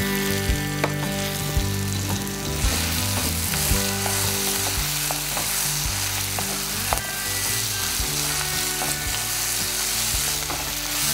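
Vegetables sizzling in hot oil in an earthenware pot as they are sautéed, with a ladle knocking and scraping against the pot while they are stirred. The sizzle gets louder about two and a half seconds in.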